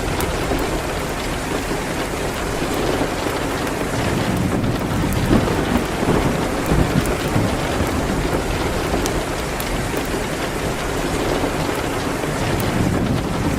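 Steady rain hitting a window, with a fireplace crackling in soft ticks. A low rumble swells about four or five seconds in, fades by about eight seconds, and comes up again near the end.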